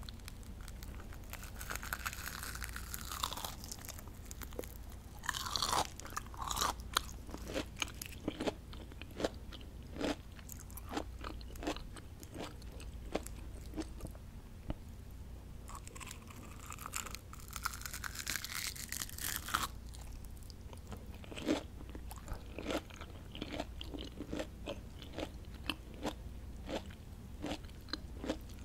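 Crispy battered onion rings being bitten and chewed close to the microphone. Two longer crackling bites come about two seconds in and again around sixteen seconds, each followed by a run of sharp, irregular chewing crunches.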